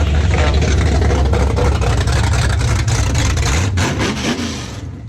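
Drag-racing car engine running loud with a heavy low rumble, dropping away near the end.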